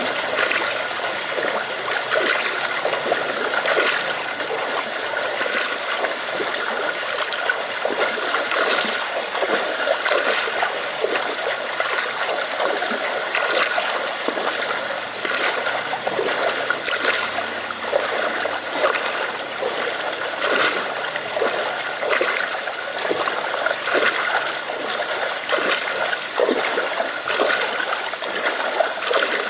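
Rain falling steadily, with many small drop impacts over running, trickling and splashing water.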